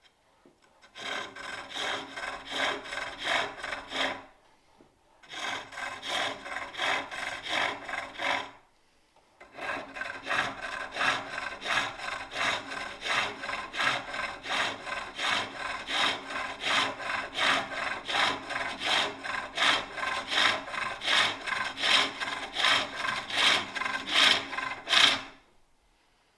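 Turning tool cutting a wooden bowl blank on a spring pole lathe, a rhythmic scraping cut about twice a second as the treadle drives the work back and forth. The cutting comes in three runs, stopping briefly twice.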